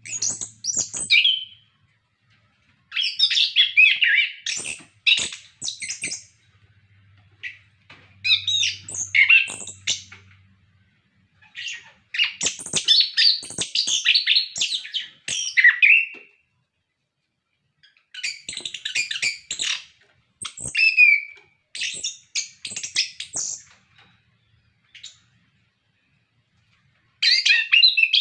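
Chestnut-capped thrush (anis kembang) in full song: loud bursts of rapid, varied high-pitched phrases, each lasting one to four seconds, with pauses of a second or more between them and a longer gap near the end.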